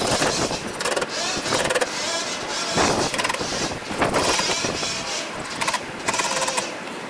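A power tool's motor running in short bursts, speeding up and slowing down between bursts, with a high buzzing rattle while it cuts or drives.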